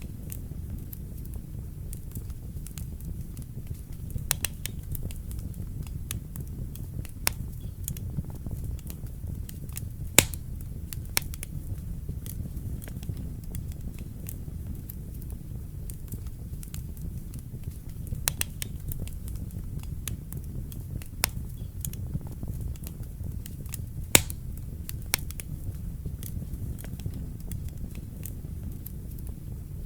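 Wood fire crackling in a fireplace: a steady low rumble of burning, with irregular sharp pops and snaps. Two louder pops come about ten seconds in and near the last fifth.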